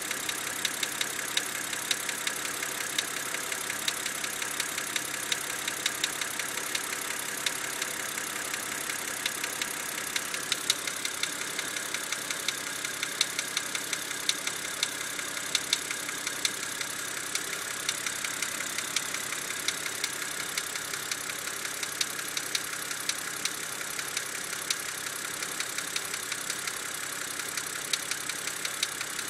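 BMW engine idling steadily with a sharp, uneven ticking several times a second over the running. The owner ties the ticking to a binding hydraulic valve adjuster (lifter) element.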